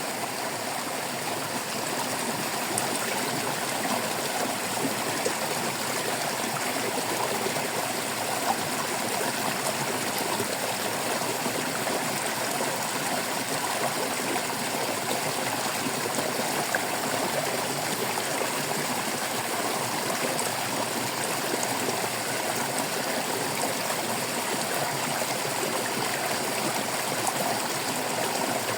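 Stream water babbling and trickling steadily.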